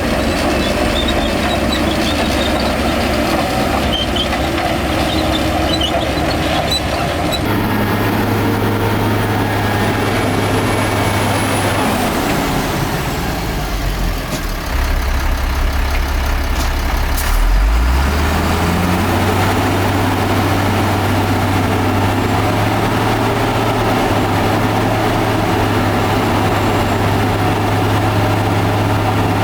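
Heavy diesel earthmoving machinery running: a steady low engine drone whose pitch shifts abruptly about seven seconds in and again around eighteen seconds.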